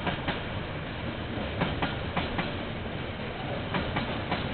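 A train rolling past, with steady wheel-on-rail rumble and sharp clicks in close pairs as wheelsets cross rail joints. It is heard through a security camera's microphone, which cuts off the highs.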